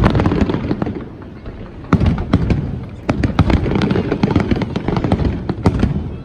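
Fireworks display: a rapid run of bangs and crackles over a continuous low rumble of booms, with fresh volleys swelling about two and three seconds in.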